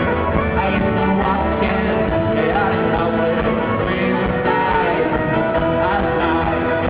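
Folk-rock band playing live at full volume, with guitar, bass and singing, and sliding melodic lines from a fiddle or voice.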